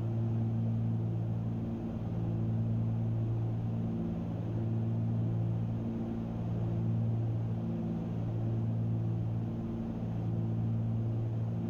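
Cessna 310Q's twin piston engines and propellers droning steadily in flight, with a slow swell and fade in level every couple of seconds.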